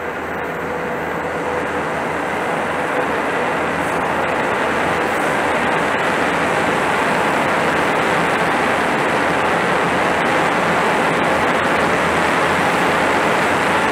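Trains passing close by, a KiYa E195 rail-transport train among them. The steady rumble and rail noise build over the first few seconds, then stay loud and even.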